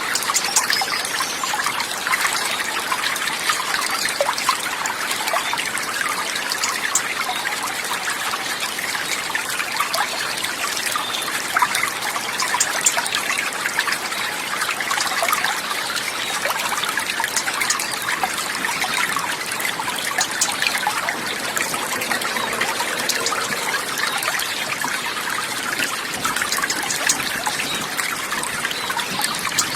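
Steady trickle and babble of running water, with no break or change.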